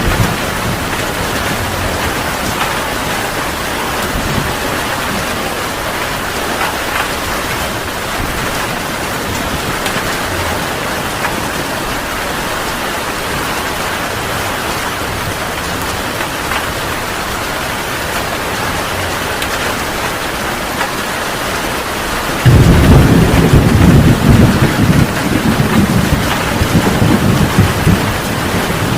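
Heavy rain falling steadily in a thunderstorm, a dense even hiss. About three-quarters of the way through a loud clap of thunder breaks in suddenly and rolls on as a low rumble.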